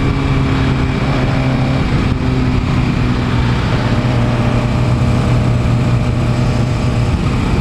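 Motorcycle engine running at a steady pitch while riding, over a constant hiss of road and wind noise.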